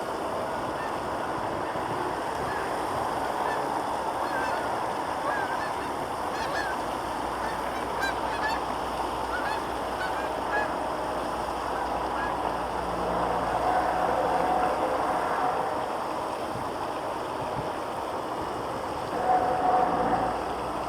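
Geese honking repeatedly, many short calls and then a few longer held ones, over a steady background rumble.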